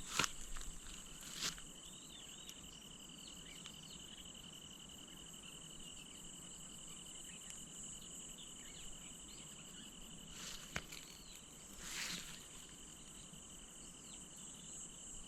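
A steady chorus of insects calling, heard as two constant high-pitched drones. A few brief rustles or knocks come through, the loudest about twelve seconds in.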